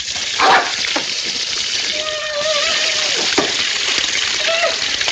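Water spraying with a steady hiss from a leaking pipe, with a few sharp splashes and a short held tone about two seconds in.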